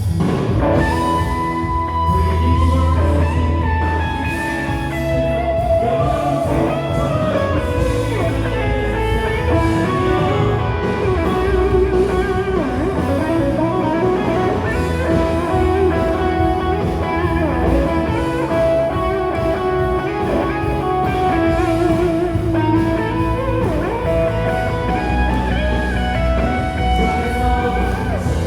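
Live worship band of drums, bass guitar, keyboard and electric guitar playing an instrumental passage of a contemporary worship song, with the electric guitar carrying a melody over a strong bass.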